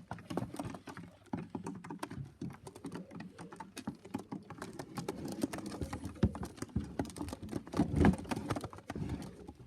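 Irregular light tapping and clicking, like pigeons' feet and beaks on the wooden loft and landing board, with low pigeon cooing in the second half.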